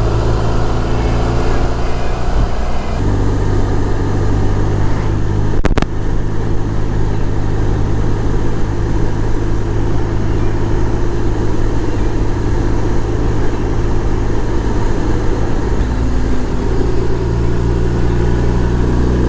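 BMW R1200 boxer-twin motorcycle engine running steadily on the move, its note shifting about three seconds in and again near the end. A single sharp click about six seconds in.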